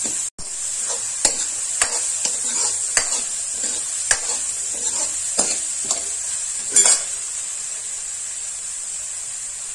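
Chopped onion and garlic sizzling in hot ghee in a kadhai, with a steel ladle scraping and clicking against the pan as they are stirred. The stirring stops about seven seconds in, leaving only the steady sizzle.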